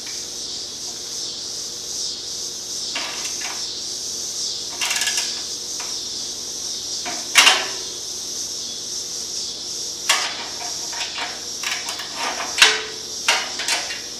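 Hand tools working on motorcycle exhaust fasteners: scattered clinks and knocks of metal on metal, with the loudest about halfway through and again near the end, over a steady hiss.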